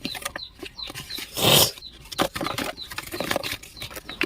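Paper and packaging being handled: rustling and small clicks, with one loud paper crinkle about one and a half seconds in. A bird chirps over and over in the background, a short high note about three times a second.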